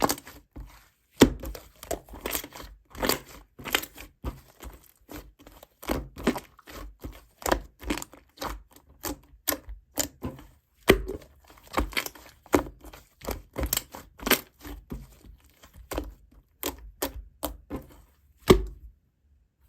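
Irregular run of sharp crackling clicks, a few a second, stopping suddenly near the end.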